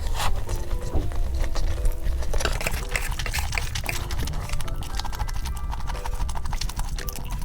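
Crispy fried chicken being chewed close to the microphone: a dense run of crunches and clicks, with light, cute background music underneath.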